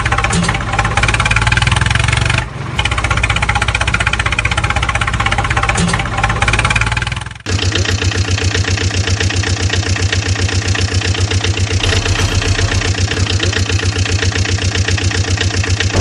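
Engine sound, a vehicle engine running at idle. It briefly drops out about two and a half seconds in, and again about seven and a half seconds in, after which it runs on with a steady, fast chugging beat.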